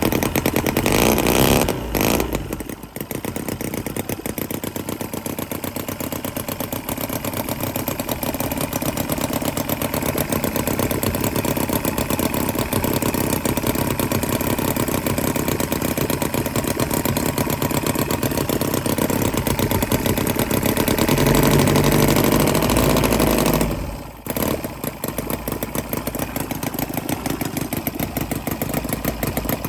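Cison V2 9cc four-stroke V-twin model engine running. About twenty seconds in it speeds up for a few seconds, then drops back sharply; there is a briefer dip about two seconds in.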